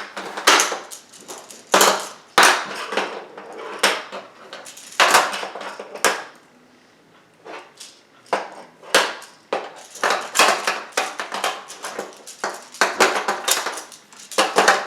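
Magnetic Polydron plastic building tiles clacking and snapping together as they are handled and stacked: many sharp, irregular clicks, with a quieter pause midway.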